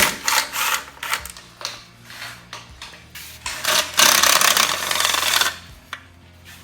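Metal clinks, taps and scrapes of hand tools and valve-train parts being handled on an open engine, then a loud rasping, rubbing noise lasting about a second and a half.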